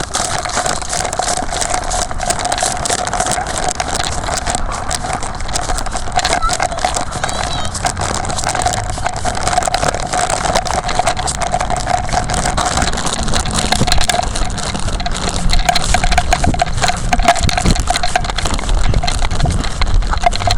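Continuous crunching and crackling of footsteps and sticks on dry leaves and twigs, full of small snaps, over a steady hum.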